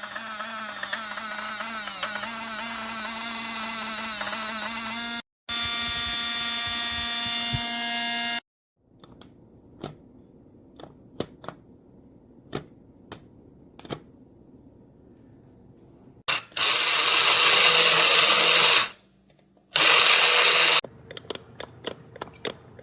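A small electric motor whirring for about eight seconds, its pitch wavering at first, then cutting out briefly and coming back louder and steady. It is followed by scattered sharp clicks and two loud bursts of hissing noise.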